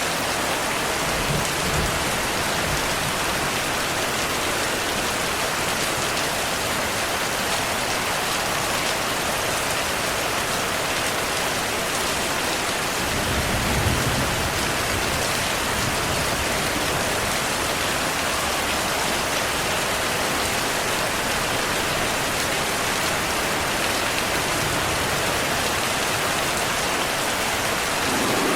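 Steady rain pouring down in an even hiss, with low rumbles of thunder about a second in and a stronger one near the middle.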